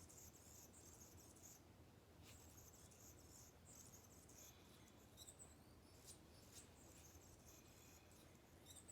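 Near silence, with faint high-pitched insect trills coming and going and a couple of brief chirps.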